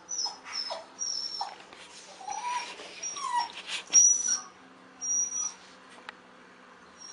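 A dog whimpering in a series of short, high-pitched whines, with a few lower gliding cries in between. The loudest whine comes about four seconds in.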